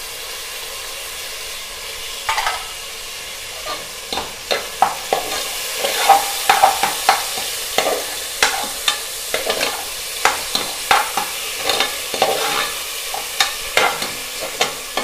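Tomatoes sizzling as they hit hot oil in an aluminium pressure cooker. From about two seconds in, a metal spatula scrapes and knocks against the pot as they are stirred in, several clicks a second over the frying hiss.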